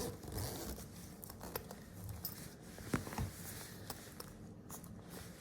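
A fabric pet carrier bag being handled and closed: faint rustling with scattered small clicks and taps, a couple of sharper ticks about three seconds in.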